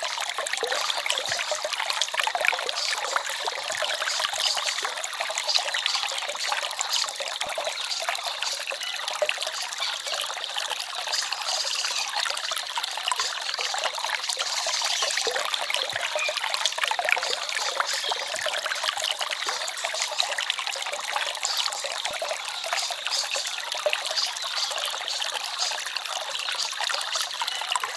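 A small forest stream trickling and babbling over stones, a steady, unbroken splashing with little low rumble.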